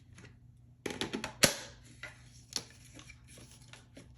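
Plastic parts of a handheld vacuum clicking and knocking as they are handled: a quick run of clicks about a second in, a sharper knock just after, and another click about two and a half seconds in.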